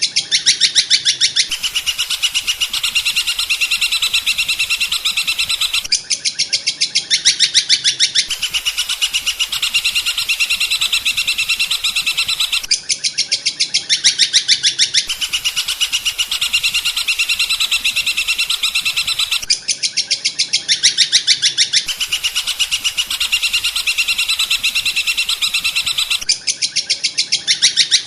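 Small songbird singing a continuous, rapid chattering trill of high notes, looped as bird-training audio. The loop switches every few seconds between two recordings of slightly different quality.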